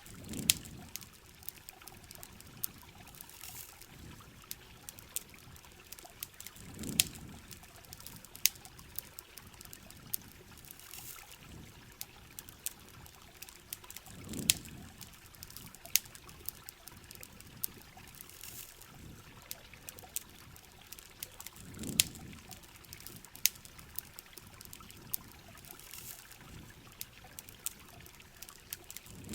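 Rain and campfire ambience: rain hissing steadily, with sharp scattered crackles from the fire. A low trickling swell of water comes back about every seven and a half seconds.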